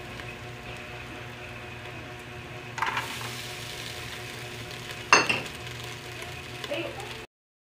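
Shallots and garlic frying in a pot, with a steady sizzle. Two sharp clinks against the pot come about three and five seconds in, the second the louder.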